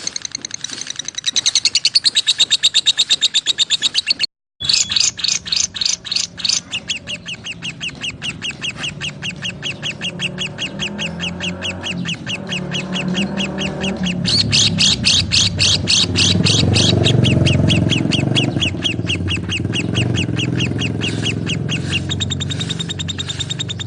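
Lovebirds chirping: a continuous rapid chatter of shrill, high-pitched chirps, several a second, that cuts out briefly a little over four seconds in and then carries on, with a low murmur underneath that grows in the second half.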